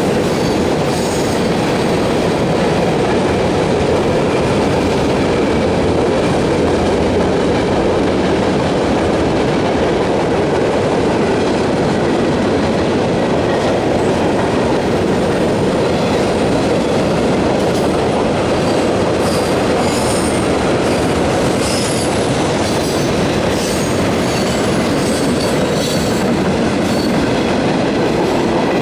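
Cars of a CSX mixed manifest freight train rolling past on the rails: a steady, loud rumble of steel wheels on track. Short high wheel squeals come and go, mostly in the second half.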